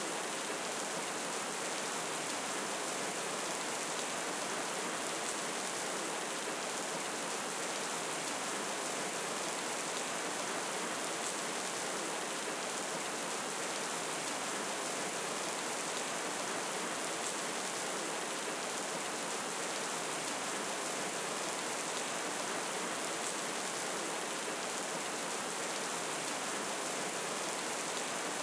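Steady rain, an even, unbroken hiss with now and then a faint tick.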